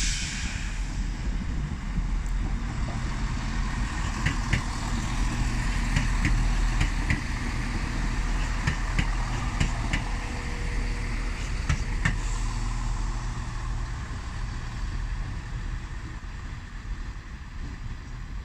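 Class 170 Turbostar diesel multiple unit's underfloor diesel engines running: a steady low rumble with scattered short clicks and squeaks, easing off over the last few seconds.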